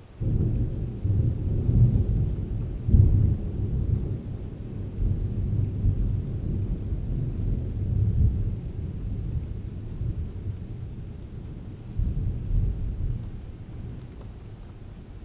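Thunder: a sudden loud crack right at the start, then a long low rolling rumble with strong swells in the first few seconds, slowly dying away, and a further swell about twelve seconds in.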